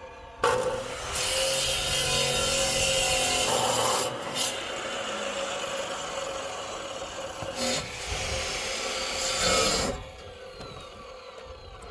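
A saw cutting through firewood: a loud, steady rasping that starts about half a second in and stops near the end, with two brief breaks, over a steady pitched hum.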